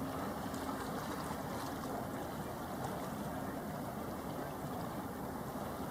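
Steady harbour ambience of wind and water noise, with a faint low hum during the first couple of seconds.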